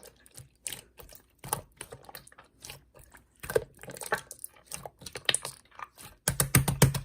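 Slime being pressed and squeezed by hand, giving an irregular run of sticky clicks and small pops that come thick and fast near the end.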